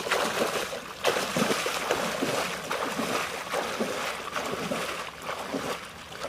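Water sloshing and splashing in irregular surges as someone moves through marsh water to retrieve a downed duck.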